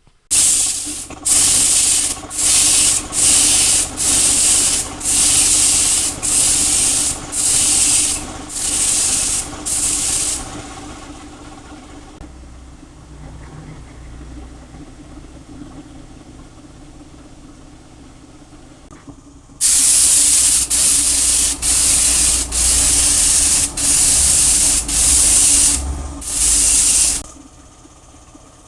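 Spray gun spraying two-part clear coat in short hissing bursts, about one a second, with a pause of several seconds midway. A steady low hum runs underneath.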